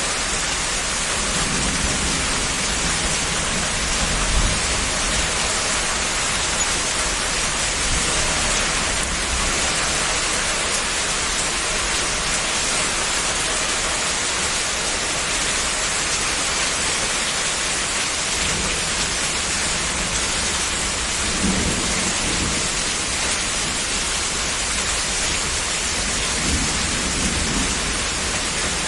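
Heavy rain falling steadily in a dense, even hiss, with a few low rumbles of distant thunder underneath, near the start and again in the last third.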